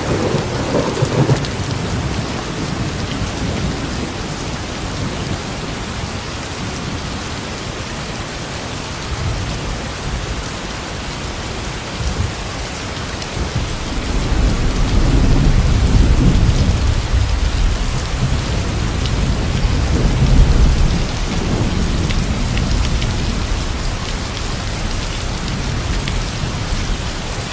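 Steady rain falling, with the low rumble of thunder rolling in at the start and again over several seconds in the middle.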